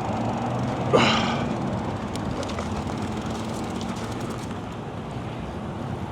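Steady wind and road noise from riding an e-bike, with a faint low steady hum and a brief louder rush about a second in.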